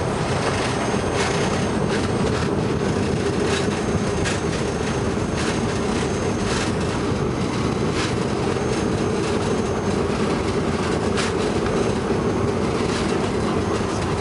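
Boeing 737 cabin noise heard from the front row: a steady rumble of engines and airflow. Short knocks come every second or so, as the landing gear rolls over the runway just after touchdown.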